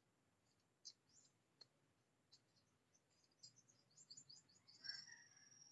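Faint small-bird chirps against near silence: a few scattered high chirps, then a quick run of chirps about three and a half seconds in, ending in a short whistled note.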